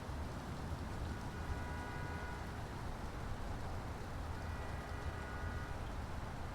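Steady low outdoor rumble, with two faint held tones of about a second and a half each, a few seconds apart.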